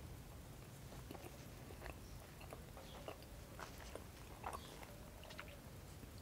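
Faint chewing with the mouth closed: soft, irregular small wet clicks of a person eating a çiğ köfte lavash wrap, picked up by a clip-on microphone.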